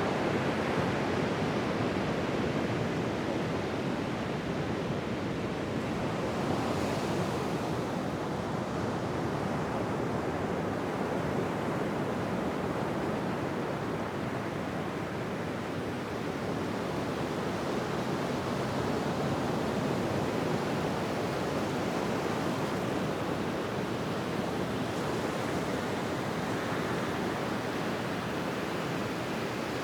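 Ocean surf: a continuous wash of waves breaking on a beach, rising and falling gently, with a brighter hiss of foam now and then.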